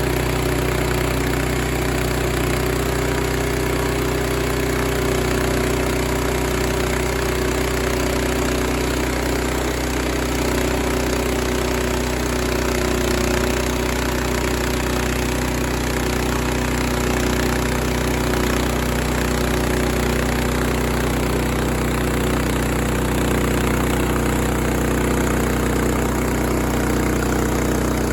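Small gasoline engine of a portable sawmill running steadily at an even speed.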